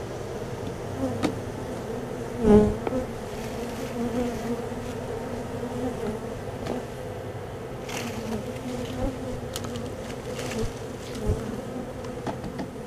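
Honey bees from a disturbed feral colony buzzing in a steady hum close around the microphone. A loud knock about two and a half seconds in, and a few lighter clicks from handling the hive parts.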